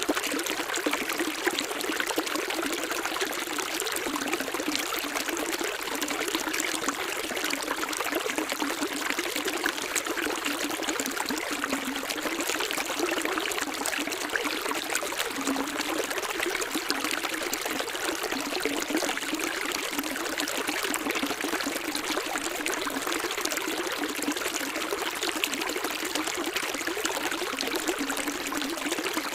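Flowing water running steadily: an even splashing hiss with little deep rumble, unchanging throughout.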